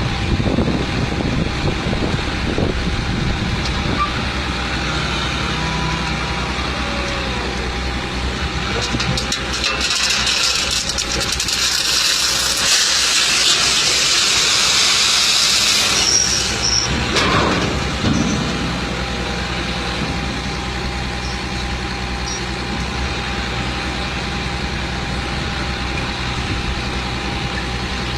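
Heavy truck engine running steadily, with a loud hiss that lasts several seconds in the middle.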